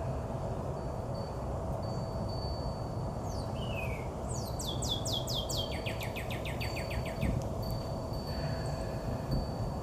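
A small songbird calling: a single falling whistle, then a quick run of down-slurred chirps, about five a second for some three seconds, over a steady low outdoor rumble.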